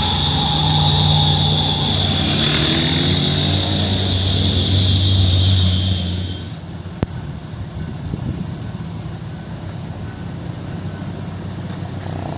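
Heavy truck running, a low engine drone with a steady high whine over it, which drops away about six and a half seconds in, leaving quieter road noise and a single click.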